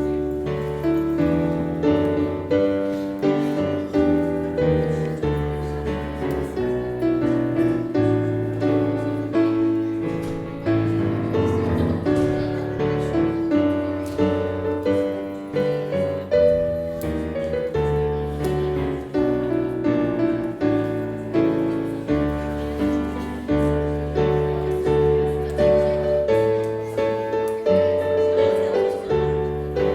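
Piano playing a slow hymn-like piece, with chords over low bass notes.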